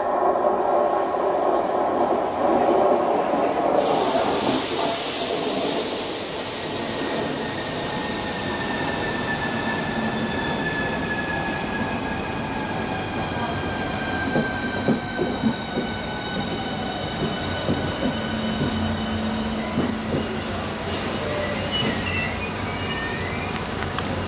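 Southeastern Class 395 Javelin electric train running past slowly, a steady rumble and hiss of wheels on rails. Over it an electric whine falls steadily in pitch as the train slows, with a few sharp wheel clicks midway.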